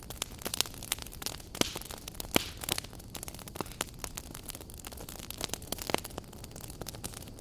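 Wood fire burning in a fireplace, crackling with frequent irregular sharp pops over a steady low rumble of flame.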